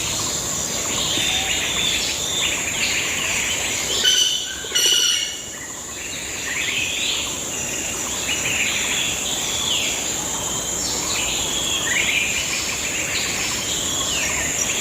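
Birds chirping and singing in repeated short phrases over a steady high-pitched insect drone. About four seconds in come two short, louder pitched calls.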